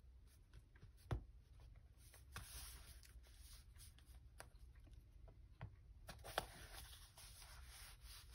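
Faint handling of paper journal pages: soft rustling with a few light clicks or taps, one about a second in and another near the end.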